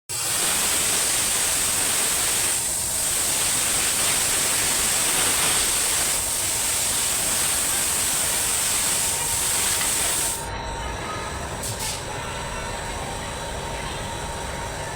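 A loud, steady hiss that cuts off suddenly about ten seconds in, leaving a quieter low rumble with a faint steady tone.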